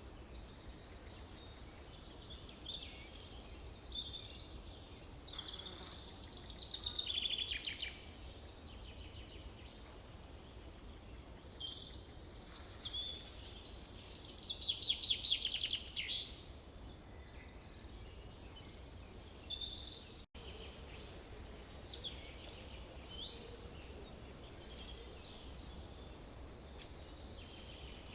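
Forest birdsong: several birds chirping and calling, with two louder rapid trilled songs, about six and fourteen seconds in, over a low steady rumble. The sound cuts out for an instant about twenty seconds in.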